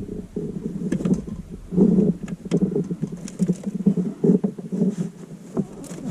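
Small sharp plastic clicks and taps from a fuse tap and fuse being handled and pushed into a car's fuse box, over an uneven low droning noise that is the loudest sound.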